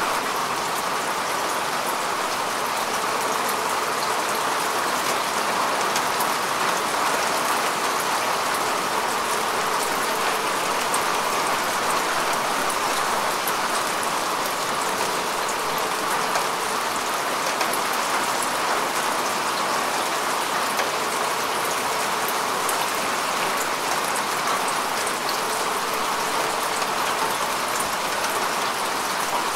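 Steady rain falling on grass and earth, an even hiss of drops with fine patters throughout.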